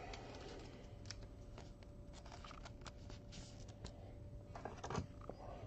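Faint, scattered small clicks and rustles of trading cards and their plastic holders being handled, with a few sharper clicks about five seconds in.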